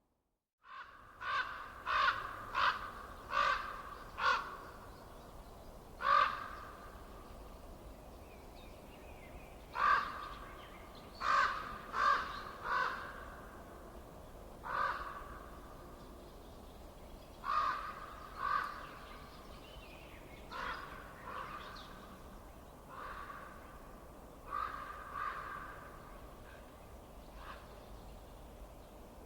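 A crow cawing repeatedly in runs of two to five harsh calls, with pauses of a few seconds between runs, over a steady low background hiss. It starts abruptly about half a second in, after dead silence.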